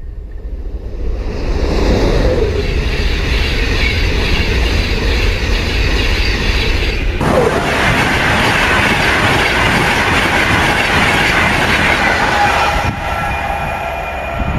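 Electric passenger trains passing at speed close by on an electrified main line: a loud rush of wheels on the rails and air. It builds over the first couple of seconds, changes abruptly about seven seconds in, and eases slightly near the end.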